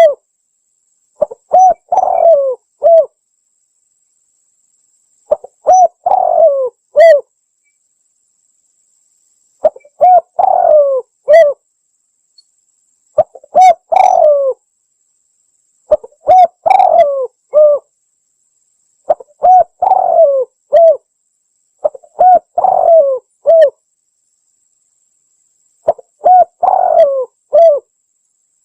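Spotted dove (tekukur) cooing: a phrase of several low, bending coos repeated about eight times, one every three seconds or so, with silence between phrases. It is a recorded lure call for attracting spotted doves.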